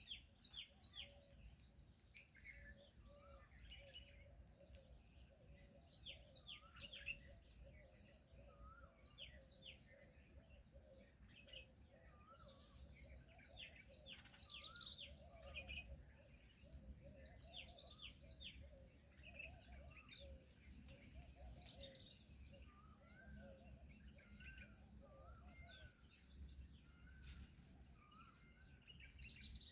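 Faint chorus of birds chirping, with many short high chirps and quick sweeping calls overlapping throughout.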